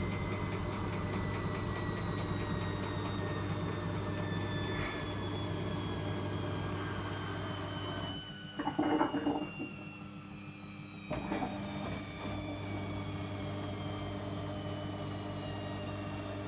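Logik L814WM16 washing machine running, its motor whine slowly falling in pitch over a steady hum. About eight seconds in the hum drops out for some three seconds while a louder noise comes and goes.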